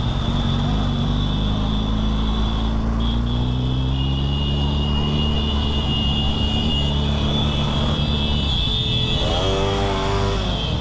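Motorcycle engine running at low, steady revs, its note rising gently over the first few seconds, over road and wind noise.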